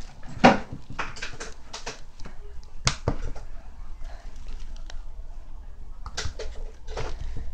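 Slime being squeezed and pressed by hand, giving irregular wet clicks and pops, with a sharp pop about half a second in and another about three seconds in.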